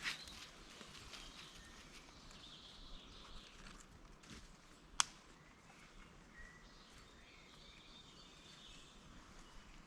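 Quiet woodland ambience with faint birds calling, and a single sharp click about five seconds in.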